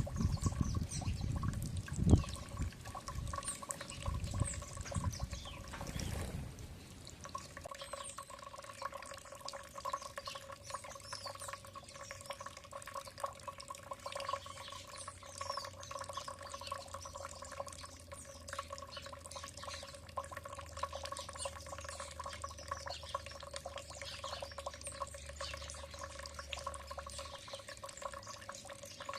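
Small birds chirping with many short, high calls over a steady trickling and dripping of water, with a faint steady hum underneath. A few low thumps come in the first few seconds.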